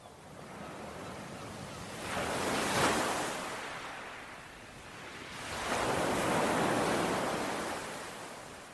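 Ocean waves washing ashore, two surges of surf: one peaking about three seconds in, a second broader one a little later, each ebbing away.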